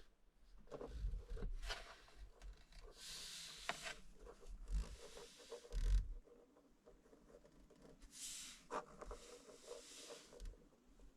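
Rustling and scraping in short bursts, with small clicks and a few soft knocks, from hands handling small objects and packaging at close range in a small enclosed space.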